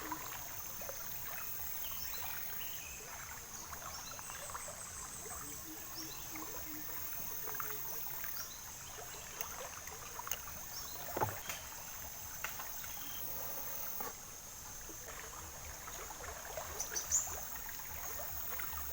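River ambience: a steady high-pitched insect drone, with small water sounds and scattered light knocks. One sharper knock comes about eleven seconds in.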